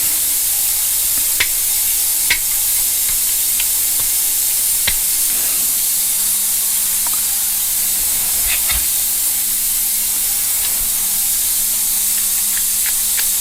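Steady high hiss with scattered small clicks and taps of small metal carburettor parts being handled and unscrewed.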